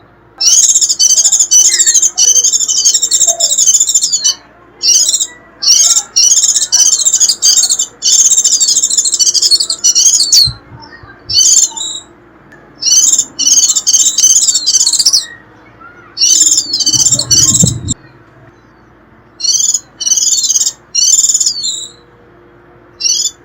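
White-eye (vành khuyên) giving its rapid, shrill "rít" twittering song in repeated bursts of one to three seconds with short pauses between. A brief low rumble comes about two-thirds of the way through.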